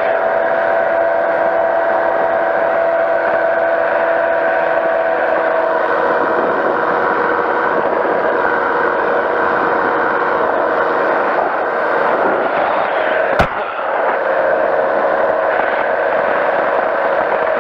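Powered parachute's engine and pusher propeller running steadily in flight, a drone with a steady pitch; the tone wavers for a few seconds midway and then settles. A single sharp click about thirteen seconds in.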